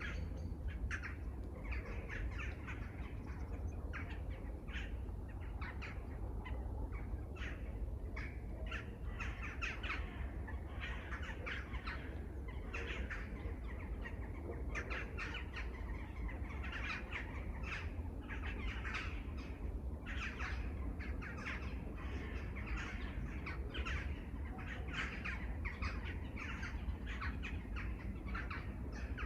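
Many birds calling over one another in a dense, continuous chorus of short calls, with a low steady rumble underneath.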